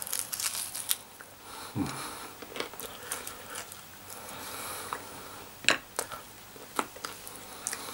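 A person biting and chewing extra-crispy chicken wings: scattered crunches and mouth clicks, with two sharper crunches about two-thirds of the way through.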